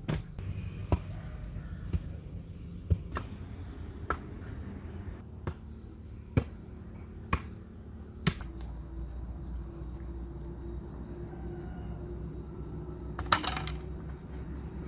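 Insects trilling steadily at a high pitch, with a series of sharp knocks about once a second for the first eight seconds and one more knock near the end.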